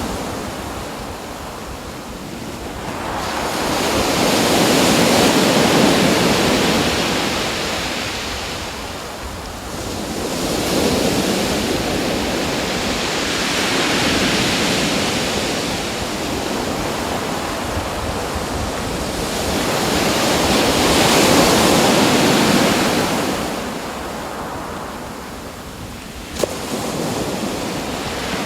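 Ocean waves washing in and drawing back, three slow swells of surf, with a single sharp click near the end.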